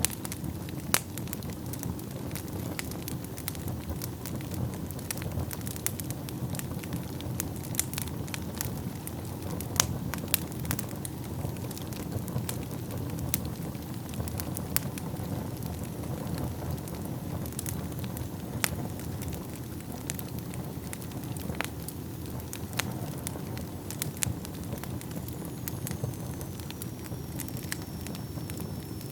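Wood fire burning in a fireplace: a steady low rush of flame under irregular sharp crackles and pops, a few louder snaps about a second in and near ten seconds. Near the end a faint, thin high whistle sounds, sinking slightly in pitch.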